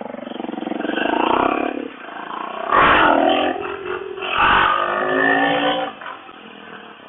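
1997 Suzuki DR650's single-cylinder four-stroke engine accelerating through the gears, its pitch rising in pulls with short dips between them as it shifts up, then easing off near the end.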